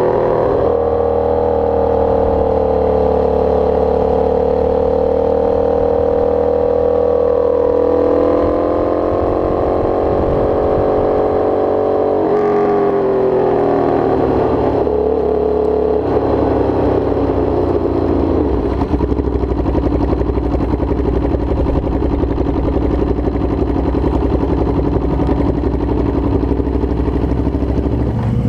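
Sport motorcycle engine running hard at high revs, its pitch steady at first, then dropping about twelve seconds in and settling lower for the rest.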